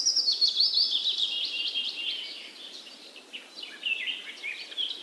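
Small birds chirping and trilling, with a fast run of high notes that slides gradually lower over the first two seconds, a brief lull, then more chirps from about three and a half seconds in.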